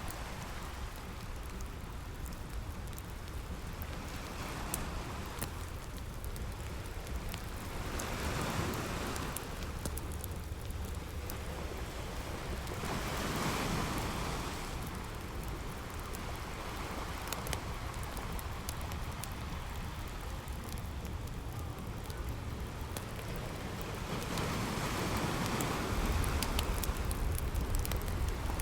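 Ocean waves washing on a beach in slow swells, with the fine crackling of a campfire over them.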